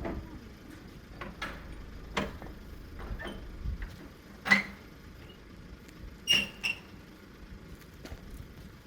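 Split oak firewood logs knocking against one another as they are handled: a handful of irregular hollow knocks, the loudest about four and a half seconds in.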